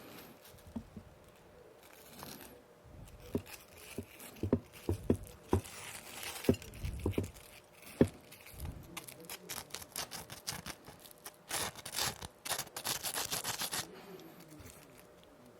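Close-miked handling of crispy donuts and their packaging: a run of light taps and clicks, then a dense stretch of crinkling from about nine seconds in that stops shortly before the end.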